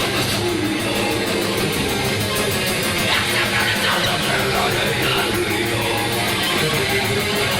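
Heavy metal band playing live: distorted electric guitars over bass and drums.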